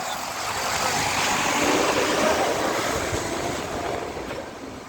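A heavy truck driving past: a broad rush of engine and tyre noise that swells to its loudest about two seconds in, then fades away.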